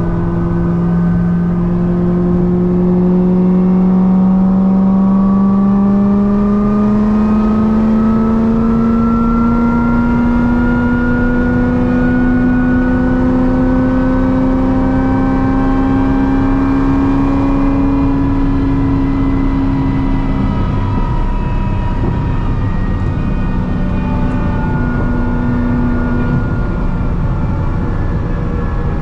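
Supercharged V8 of a C6 Corvette ZR1 fitted with a Kong 2650 supercharger, pulling under load at highway speed. The engine note climbs steadily for about twenty seconds, then drops back and runs on at a steady cruise.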